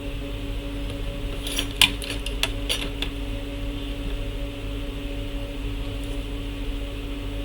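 A steady electrical hum with a faint hiss, broken by a short run of about six light, sharp clicks between about one and a half and three seconds in.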